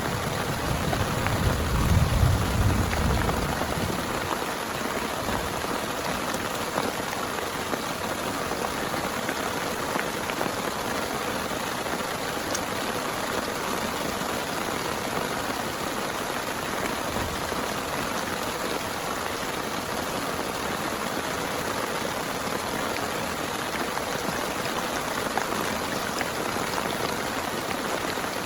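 Heavy rain falling steadily and evenly. A low rumble of thunder is still fading out over the first few seconds.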